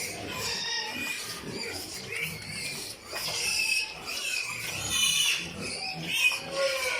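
Pigs squealing: a run of high-pitched squeals, one after another, with no gap of quiet between them.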